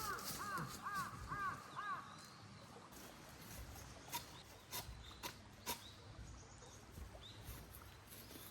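A bird calling in a quick run of five arching notes over the first two seconds, followed a few seconds later by several sharp clicks.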